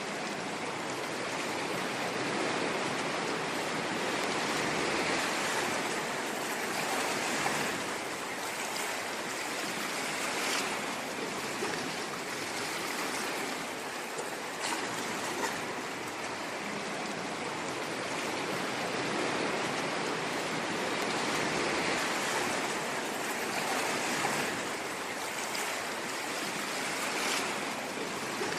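Ocean waves washing in: a steady rushing of surf that swells and eases slowly every few seconds.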